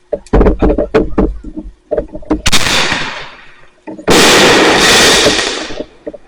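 Fireworks going off: a quick run of sharp pops, then a loud burst about two and a half seconds in that fades into a hiss, then a louder dense crackle lasting about two seconds.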